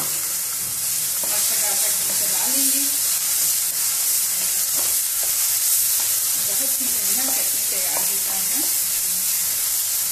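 Blended onion-garlic chutney paste sizzling in hot oil on a tempering of mustard seeds and dals in a kadhai, stirred with a flat spatula. There is a steady frying hiss with scattered scraping ticks of the spatula against the pan.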